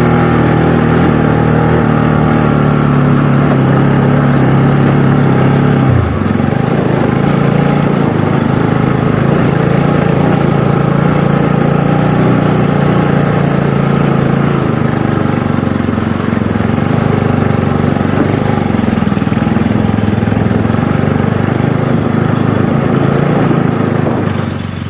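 Motorcycle engine running under way on a rough track, its note dropping suddenly about six seconds in and fading near the end.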